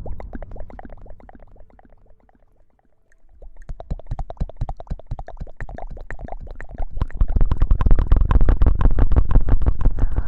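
Close-miked ASMR rustling: a dense crackle with a low rumble under it. It fades almost away about two seconds in, then builds back up and is loudest over the last few seconds.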